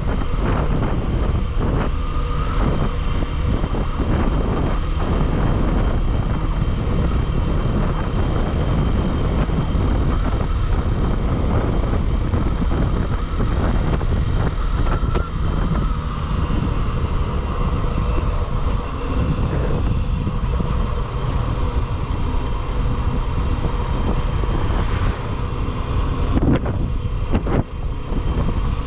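Motorcycle riding at speed, with wind rushing over the microphone and steady engine and road noise underneath.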